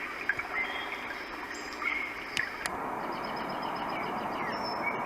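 Recorded nature soundscape of birdsong chirping over a rushing background, played through the Roffie N600 sound machine's speaker. A sharp click comes about halfway through, after which the track changes to a steadier rushing noise with a repeated high trill.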